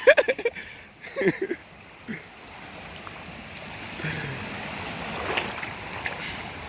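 Steady rushing water, an even hiss that grows louder a few seconds in, after a couple of brief voice sounds at the start.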